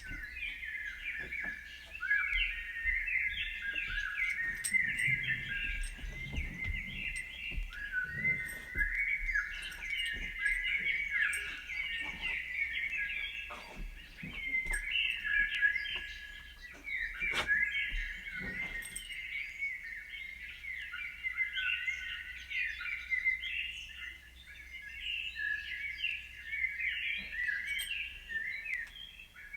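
Many small birds chirping at once in a dense, continuous chorus of short, overlapping high calls, with faint scattered clicks beneath.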